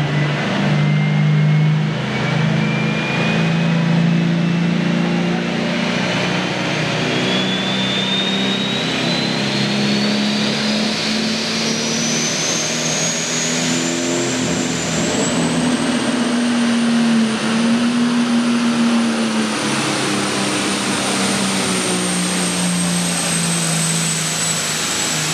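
Pro stock pulling tractor's turbocharged diesel engine running hard under full load. A high turbo whine climbs steadily for about fifteen seconds, then holds high, sagging slightly near the end.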